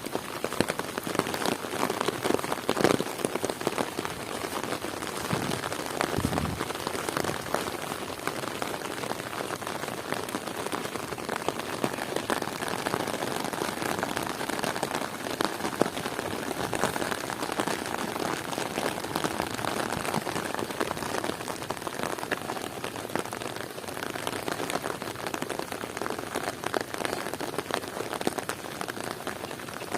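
Heavy rain falling steadily, with many close individual drop impacts, a little louder in the first few seconds.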